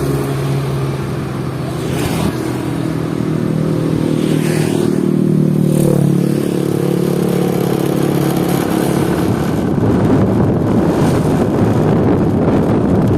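A motor engine running, its pitch shifting up and down, becoming rougher and noisier from about ten seconds in.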